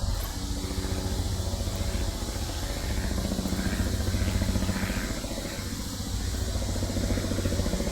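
Helicopter flying nearby: a steady engine drone with a rapid, even chopping pulse from the rotor, swelling slightly around the middle.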